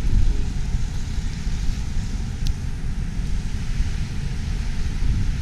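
Wind buffeting the microphone in a snowstorm: an uneven low rumble that goes on throughout, with a single faint tick about two and a half seconds in.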